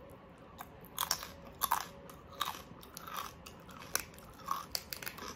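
Close-miked chewing of crispy oven-baked pork skin. Sharp, irregular crunches begin about a second in and come roughly once or twice a second.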